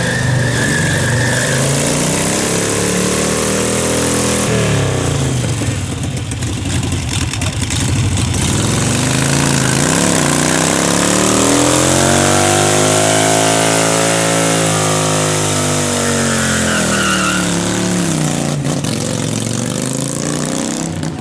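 Sport motorcycle engine held at high revs, its pitch swelling up and sinking back slowly twice, over a steady hiss.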